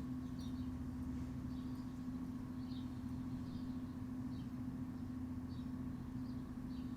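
Backyard ambience: a steady low machine hum runs throughout, with short high bird chirps about once a second.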